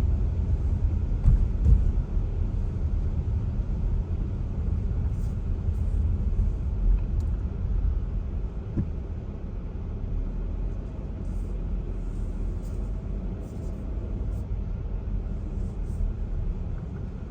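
Car cabin noise while driving slowly: a steady low rumble of engine and tyres, easing off a little over the last several seconds as the car slows.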